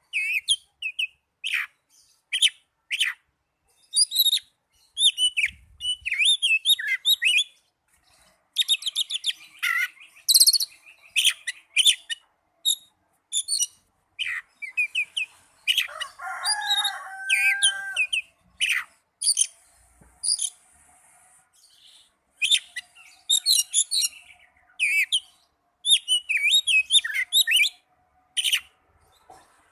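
Oriental magpie-robin (kacer) singing: short, high whistles and warbled chirps in bursts with brief pauses. About sixteen seconds in there is a lower-pitched, fuller call.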